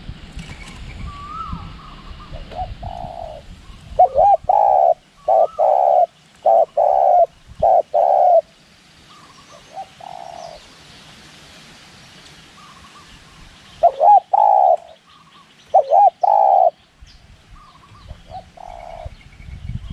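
Spotted dove cooing: loud, repeated coo phrases in two bouts, about four seconds in and again near fourteen seconds, with softer single coos between. Faint chirps of other birds sit behind it.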